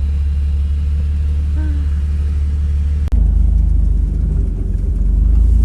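Jeep driving on a trail, heard from inside the cabin: a steady low engine and road rumble. About three seconds in, the sound changes suddenly and gets louder.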